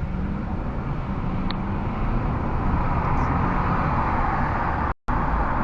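Car engine and tyre noise heard from inside the cabin as the car moves off from the lights, the road noise building steadily as it gathers speed. The sound cuts out for an instant near the end.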